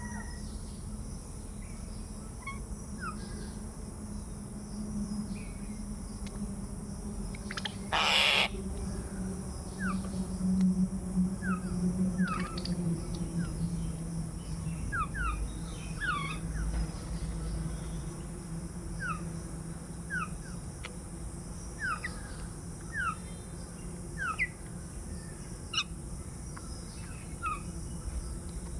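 Doves cooing low and steadily, with short high chirps of small birds scattered throughout. A brief loud rustle about eight seconds in.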